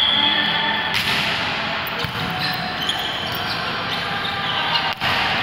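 Noisy indoor sports-hall ambience during a youth sparring match, with a steady high tone ending about a second in and scattered ball thumps.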